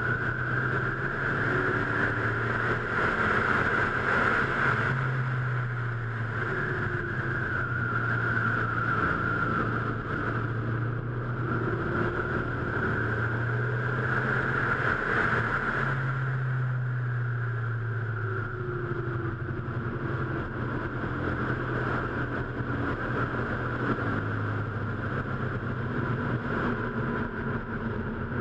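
Car engine running hard on a racetrack lap, heard from inside the car: its note climbs over several seconds under acceleration and drops back several times, over steady wind and road noise.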